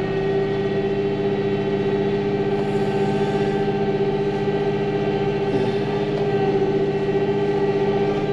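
Tractor engine running at steady revs while plowing snow, a steady drone.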